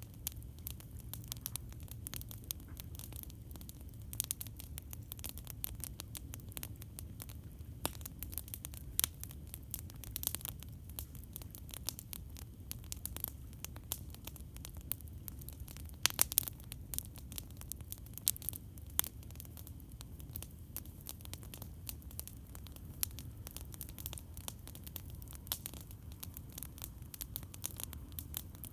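Campfire crackling: a dense, irregular run of snaps and pops over a low steady rumble, with a few louder pops about halfway through.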